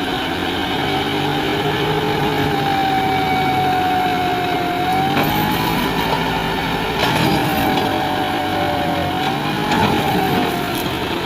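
John Deere 5050D tractor's diesel engine running steadily, with a whining tone that rises and falls slightly.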